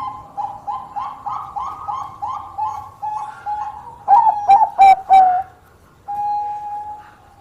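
Zebra dove (Bangkok perkutut) cooing: a quick run of short rolling notes, about three a second, then a few louder notes around four seconds in, and a long held note near the end.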